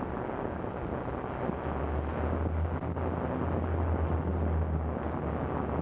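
Steady hiss of background noise with a low rumble, strongest from about two to five seconds in.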